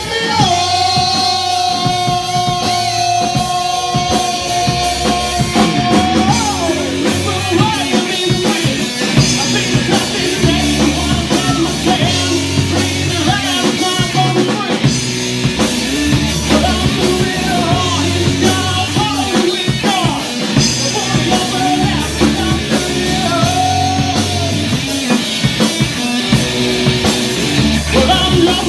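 Rock band playing a song: drum kit, electric guitar and a singer, with a long held note in the first few seconds.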